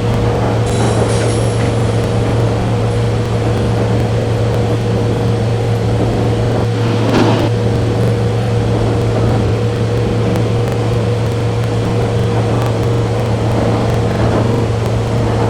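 Steady rumble of a running train, with a constant low hum and a steady higher tone, and a brief louder rush about seven seconds in.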